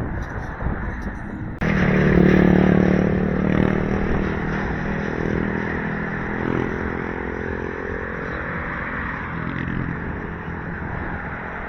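A motor vehicle's engine running close by: it starts suddenly about a second and a half in, is loudest just after, then slowly fades, over a steady background rush of traffic and wind.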